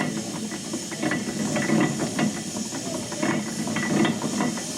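Steady hiss of escaping steam from a steam engine, with voices talking over it.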